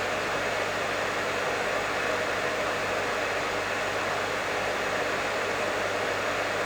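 Professional hair dryer running steadily: an even rushing of air with a low motor hum beneath it, unchanging in level.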